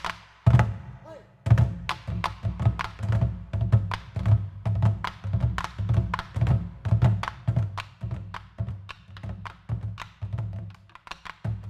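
Korean traditional percussion music: drums beaten in a steady rhythm of about two strokes a second, with many sharp, clicking strikes laid over it.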